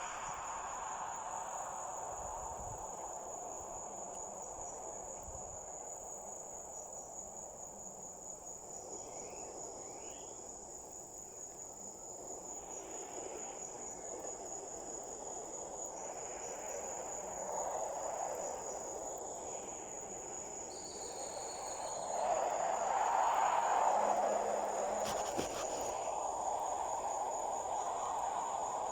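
Insects trilling in one steady, unbroken high tone, over a soft rushing background noise that swells about two-thirds of the way through.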